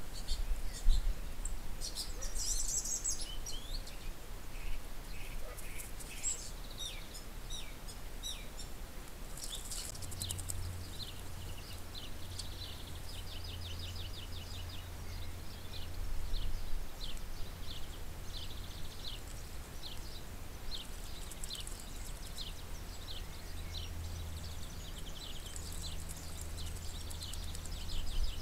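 Small songbirds chirping and calling again and again, with a couple of rapid trills, over a steady low hum that comes in about ten seconds in.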